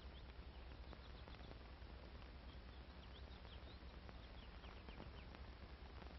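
Near silence: old film soundtrack hiss and a low mains hum, with faint, short, high bird chirps scattered through it.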